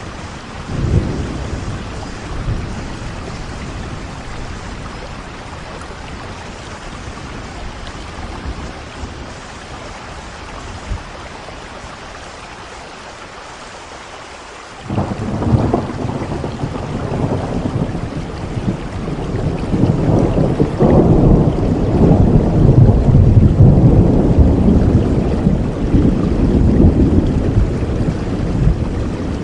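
Heavy rain falling steadily, with thunder: a short rumble about a second in, then a sudden crack about halfway through that swells into a long, loud rolling rumble lasting to the end.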